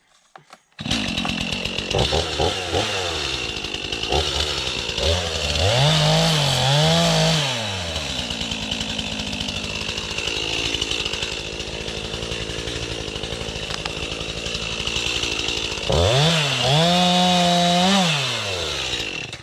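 Two-stroke chainsaw running. It starts suddenly about a second in, is revved up to full speed twice, runs lower in between, and cuts off at the end.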